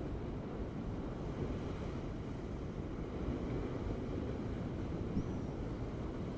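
Ocean waves making a steady low rumble.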